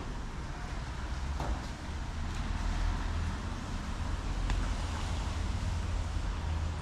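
City street ambience: a steady low rumble under an even hiss, with a few faint clicks.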